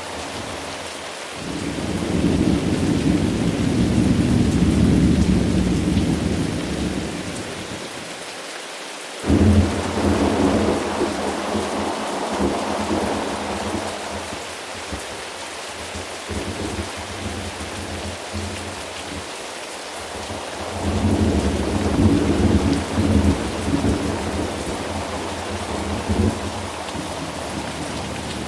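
Steady rain with thunder rolling through it: a long low rumble starting a second in, a sudden sharp thunderclap about nine seconds in that rolls on, and another swell of rumbling thunder a little past twenty seconds.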